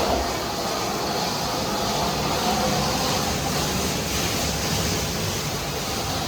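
PDQ ProTouch Tandem automatic car wash running its cycle: a steady rushing of high-pressure water spray.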